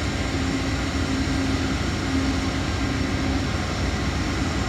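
Steady rumble and roar of a freight train rolling past, with a faint tone coming and going.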